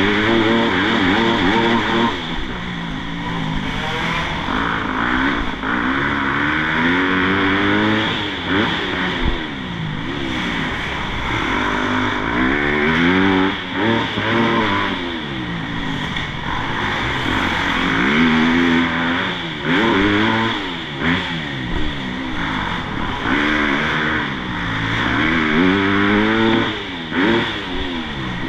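Motocross bike engines revving hard and backing off over and over, the pitch climbing and falling every two to three seconds as the throttle is opened and shut around the track, with a constant hiss over the engines.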